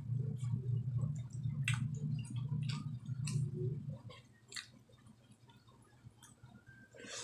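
Close-up eating of adobo chicken feet: wet mouth clicks and smacks of chewing, with a low steady hum under them for about the first four seconds and a sharper click near the end.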